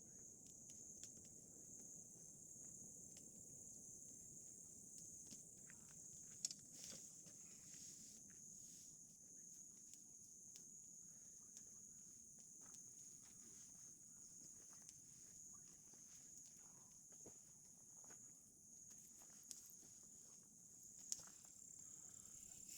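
Faint steady chirring of night insects, crickets, with scattered small crackles from a wood campfire and two sharper pops, one about six seconds in and one near the end.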